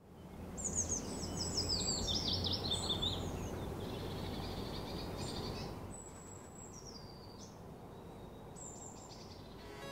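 Songbirds chirping over steady outdoor background noise: a quick run of falling chirps in the first few seconds, then a few shorter calls spaced out. The background noise drops a little about six seconds in.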